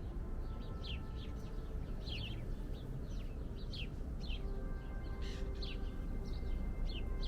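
Small birds chirping: short falling chirps at about two a second, over a steady low background noise.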